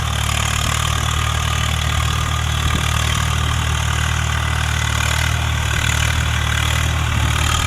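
Swaraj 855 tractor's three-cylinder diesel engine running at a steady, even speed, with a low drone.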